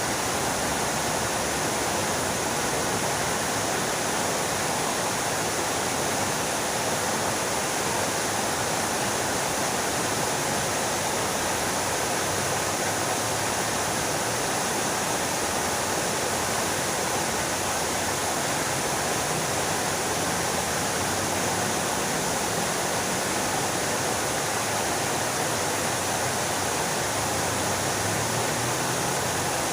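Fountain water splashing down steadily, an even rushing hiss.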